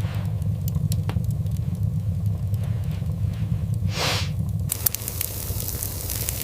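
Scattered crackling over a steady low rumble, with a short whooshing swell about four seconds in; soon after it the low rumble drops back and the crackle turns brighter.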